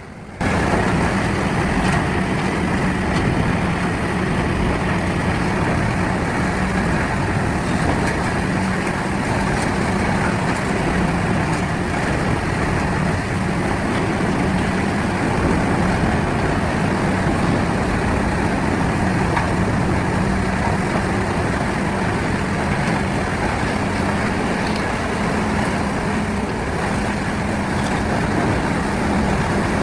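CBI 6400 CT grinding machine running steadily at work: a loud, unbroken machine noise with a constant low hum, starting abruptly about half a second in.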